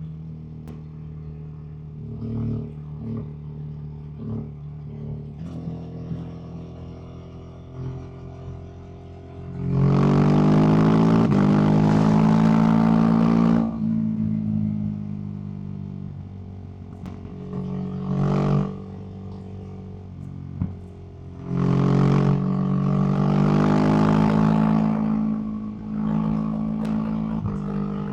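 Ducati SuperSport S V-twin through a Termignoni aftermarket exhaust, running at light throttle, then opened up hard twice for about four seconds each, around ten seconds in and again around twenty-two seconds in. Short throttle blips come in between.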